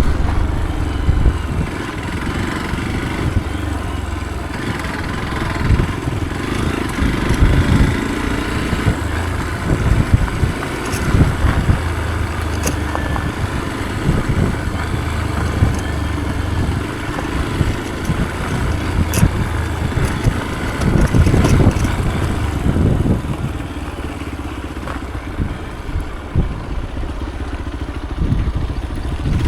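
Motorcycle engine running steadily while riding a rough trail, with irregular low thumps and surges.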